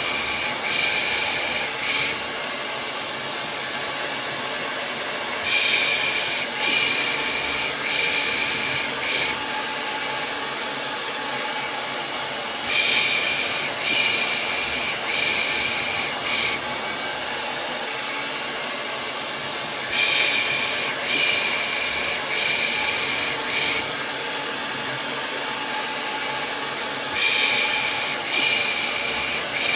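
Hair dryer running with a steady hiss, overlaid about every seven seconds by a set of four rhythmic 'pış' shushes, the soothing shush used as white noise to lull a baby to sleep.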